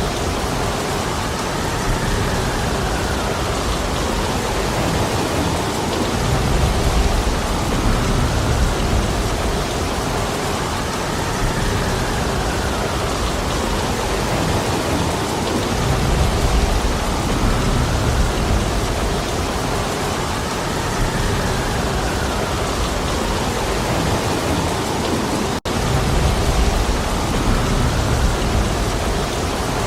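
Heavy rain falling steadily, with wind that swells and fades and a low rumble rising every four or five seconds. There is a momentary break in the sound about 25 seconds in.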